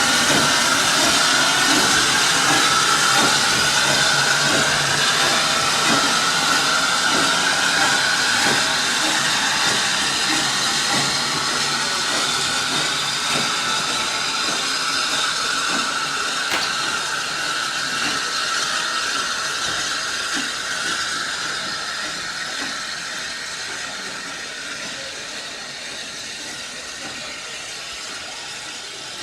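Steam locomotive and its train running on the line, with strong steam hiss and a high tone that drifts slightly down in pitch; the whole sound steadily fades away as the train draws off.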